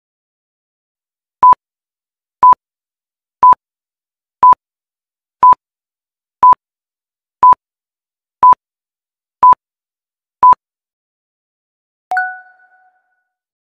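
Electronic quiz-timer beeps: ten short, high, identical beeps, one a second, ticking off the countdown. About a second and a half after the last one, a single lower tone sounds and fades, marking that the time is up.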